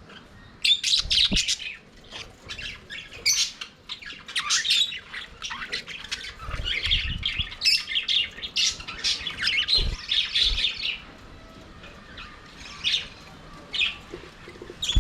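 A flock of budgerigars chirping and warbling together: a dense run of short, high, overlapping calls that thins out to a few scattered chirps near the end. A few dull low thumps come in among the calls.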